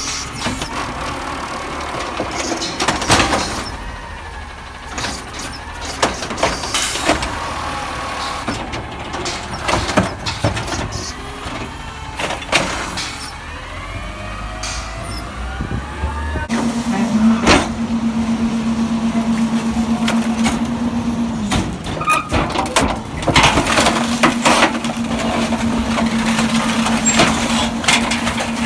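Garbage truck at work: its engine runs while metal clanks and knocks sound again and again. A steady hum starts about halfway through, stops for a couple of seconds and comes back near the end.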